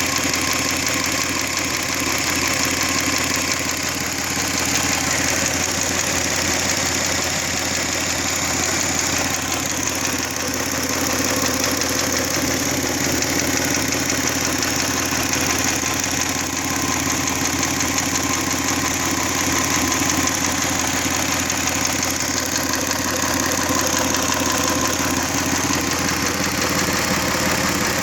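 Hyundai/Kia G6EA 2.7-litre V6 engine idling with a knock, whose cause the owner is trying to find.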